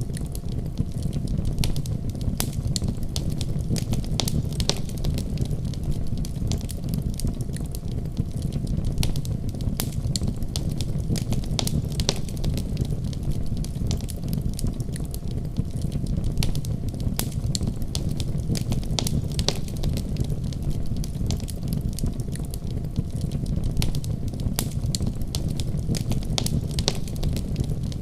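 Fire crackling in a fireplace: a steady low rumble of flames with frequent, irregular sharp pops and snaps.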